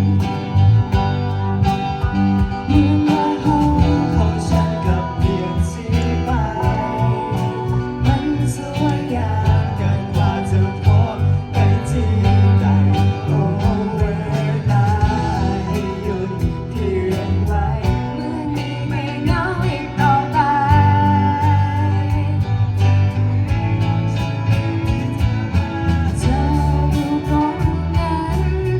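A school pop band playing a song live: bass and drums under a melody line, with guitar.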